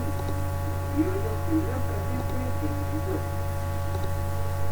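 Steady electrical mains hum with a stack of even overtones, with faint, indistinct voices beneath it.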